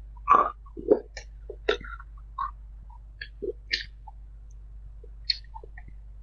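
Close-miked eating sounds: a person chewing food, making irregular crisp clicks and crunches, with the loudest bites in the first second.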